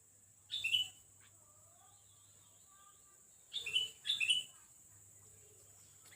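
Wild birds calling: three short, sharp calls, one about half a second in and two in quick succession about three and a half seconds in, over fainter twittering.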